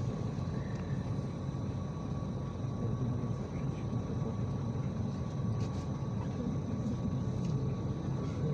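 IVECO Crossway 13M PRO city bus under way, heard from inside: a steady low rumble of engine and road, with a faint, steady high whine running through it.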